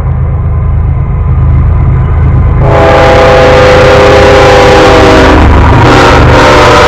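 Diesel locomotive's multi-chime air horn sounding a long blast from about three seconds in, a brief break, then another blast near the end, over the steady low rumble of the locomotive's engine.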